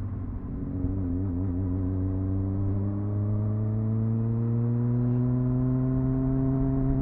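Triumph Speed Four's 600 cc inline-four engine on its stock exhaust, pulling steadily under way, its pitch rising slowly and evenly as the bike gains revs.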